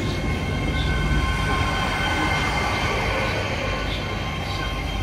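GWR Hitachi Intercity Express Train (bi-mode) moving slowly along the platform on diesel power. A steady low engine rumble runs under a set of high, even whining tones from the traction equipment.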